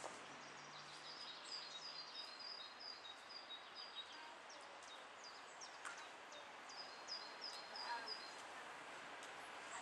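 Faint birdsong: a small songbird repeating rows of short high notes, in three phrases, over a steady outdoor hiss.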